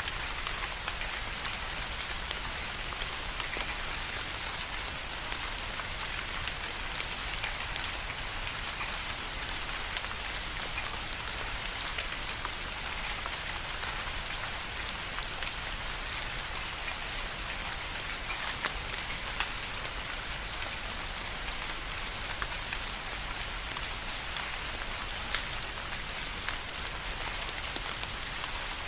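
Steady rain falling, a dense even hiss with many fine scattered drop ticks.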